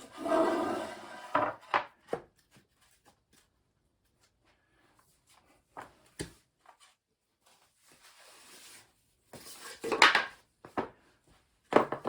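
Compressed-wood sub-floor tiles being slid and knocked into place: a scraping rub at the start, a few scattered wooden knocks, and a cluster of louder knocks about ten seconds in.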